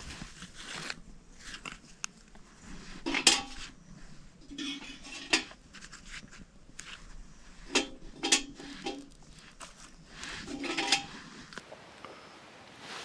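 Metal camp cookware and utensils being handled: a series of clinks and knocks with a short metallic ring, the loudest a few seconds in and around the middle.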